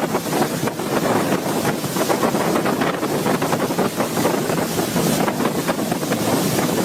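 Torrential floodwater rushing past: a loud, steady roar of water, with wind buffeting the microphone.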